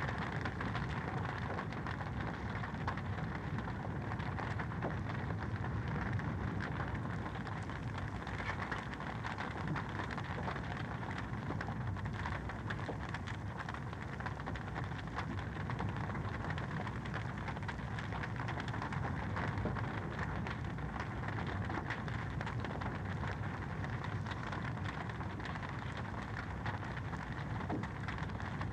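Fireplace fire crackling steadily, a dense continuous run of small pops and snaps over a soft rushing hiss.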